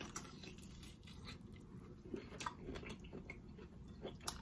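Faint, close-up mouth sounds of a person chewing lobster tail meat, with scattered soft wet clicks and smacks. A single sharp click near the end is the loudest sound.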